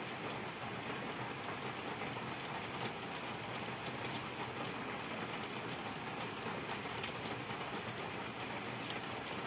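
Steady rain falling on wet paving and plants, an even hiss with scattered sharp ticks of single drops.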